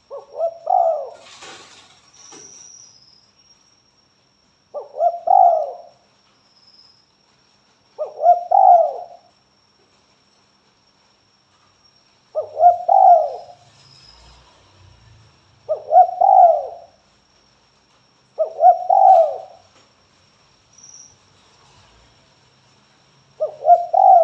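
Spotted dove cooing: the same short cooing phrase repeated seven times, roughly every three to four seconds, the bird's calling song.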